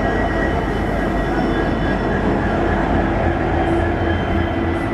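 Three-phase MEMU electric train running steadily as it pulls away, heard from aboard: a continuous rumble with a steady high whine on top.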